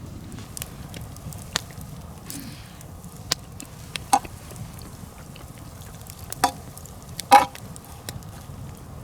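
Nodya campfire of long logs burning with a steady low rush and scattered sharp pops and cracks of the wood, about five loud ones, the loudest about seven seconds in.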